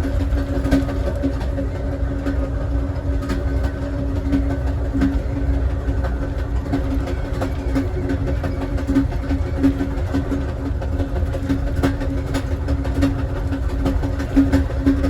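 Amtrak Southwest Chief passenger car rolling along the track: a steady low rumble with a constant hum, and scattered irregular clicks from the wheels on the rails.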